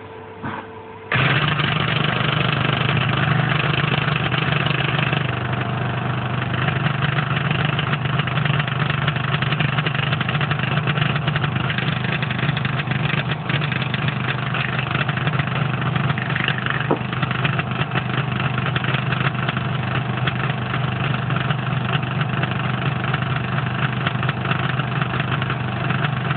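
Copeland ZP182KCE scroll compressor (380 V, 50 Hz) starts about a second in and runs with a steady hum and a knocking noise. The owner cannot explain the knock, since the electrical supply and frequency have been verified.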